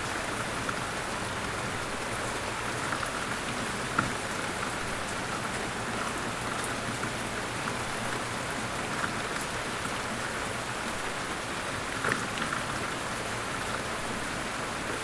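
Steady rain falling, an even hiss with scattered louder drips, the sharpest about four seconds in and again around twelve seconds.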